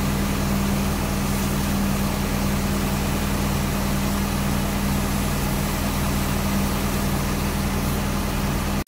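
Fire engine's motor idling steadily: a constant low hum with an even hiss over it that cuts off suddenly near the end.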